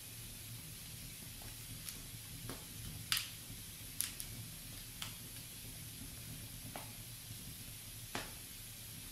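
Wood fire in a fireplace crackling, with sharp pops from the burning logs every second or so, the loudest about three seconds in, over a steady low hiss.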